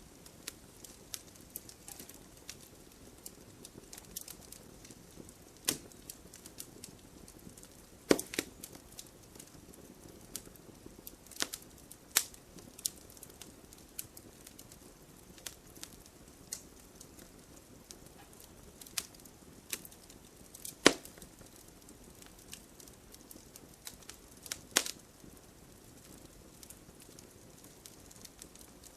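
Wood logs burning in a fireplace, crackling with irregular sharp pops and a few louder snaps over a faint low rumble of the fire.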